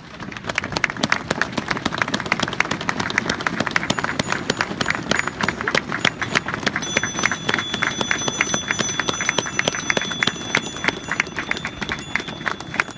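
Large crowd applauding, with many bicycle bells ringing along from about halfway through.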